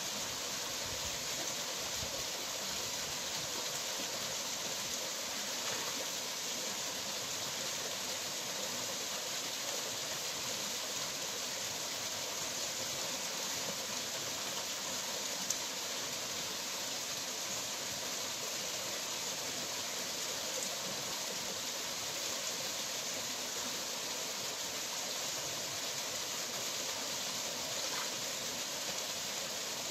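Steady rush of water from a waterfall pouring over rocks, an even hiss with no breaks, and a single brief click about halfway through.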